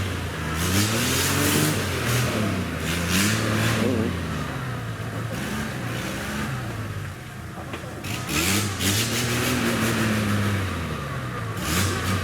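Off-road Toyota Land Cruiser's engine revving up and down in repeated surges. It eases off about seven seconds in, then revs hard again. Bursts of rushing noise come and go on top.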